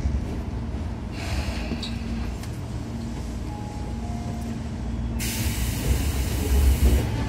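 Tobu 9000 series commuter train heard from inside the car: the steady low rumble of the running train, with a sudden hiss starting about five seconds in and cutting off about two seconds later.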